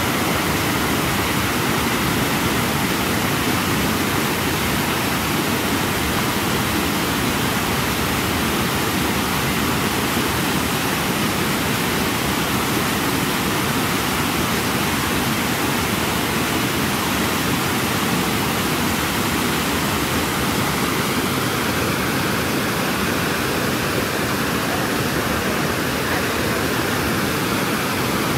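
Small stream running, a steady rushing of water.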